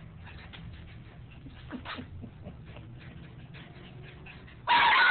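Faint scattered clicks and scuffles, then near the end a sudden loud bark from a Yorkshire terrier.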